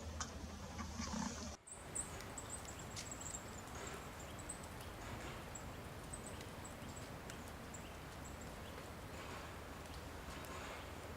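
Small birds calling with short, very high, thin notes, repeated quickly over a steady outdoor background hiss. There is a brief dropout in the sound shortly before the calls start.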